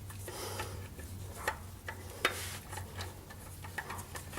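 Scattered light clicks and taps as a new oil filter is handled and threaded onto its mount by hand, over a faint steady low hum.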